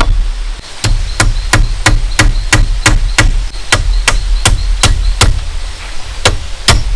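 Rapid, evenly paced blows of a hand tool on bamboo, about four a second, resuming after a short pause near the start, over a steady low rumble.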